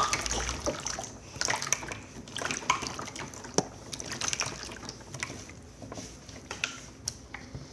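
Slime being squished and worked by hand: irregular wet, sticky clicks and small pops, one sharper pop about three and a half seconds in.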